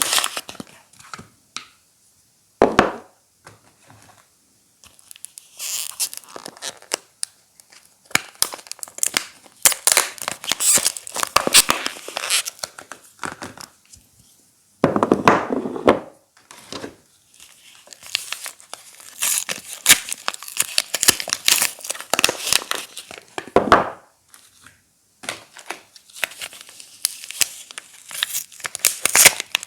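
Soap wrappers being crinkled and torn open by hand, in irregular bursts of crackling and tearing with short pauses between them.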